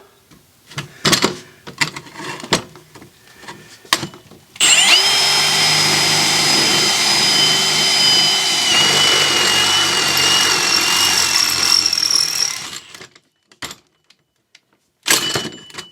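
A power drill with a stepped-point bit runs for about eight seconds, boring right through steel with a steady high whine, and stops sharply. Scattered clicks and knocks come before it and a few knocks near the end.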